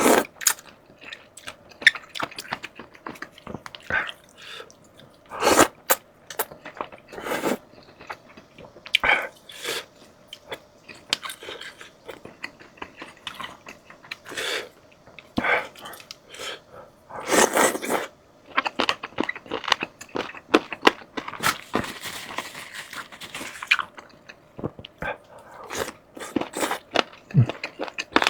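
Close-miked eating: irregular crunching bites and chewing of crispy fried chicken, with short noisy bursts of crackling between quieter wet chews.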